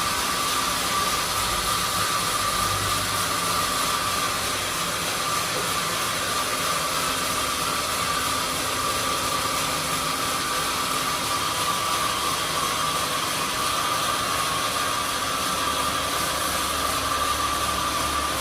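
Sawmill saw running steadily: an even hiss with a high, steady whine.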